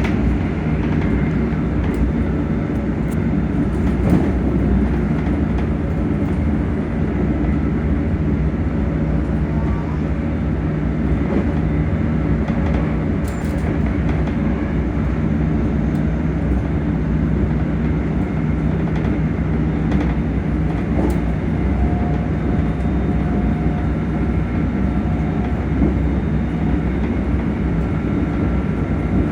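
ScotRail Class 385 electric multiple unit running, heard on board: a steady, even rumble of the train in motion, with faint steady traction-motor tones that come and go, and a few light clicks.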